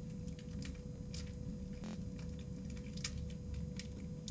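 Sticky bead-filled slime being pulled and handled: faint squishing with scattered small clicks and crackles from the beads, over a steady low electrical hum.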